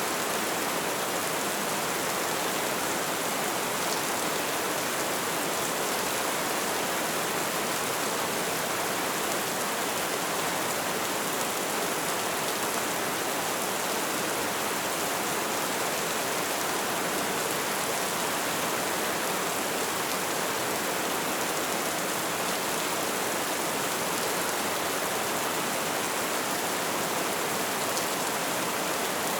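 Light rain falling steadily, a continuous even hiss with fine scattered drop patter.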